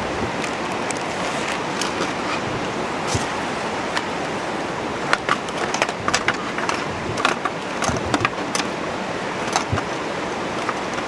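Steady rush of flowing water, with a run of sharp clicks and knocks from about five to nine seconds in.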